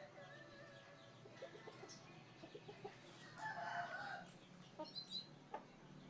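A chicken clucking faintly once, about halfway through, with a few light ticks and knocks around it.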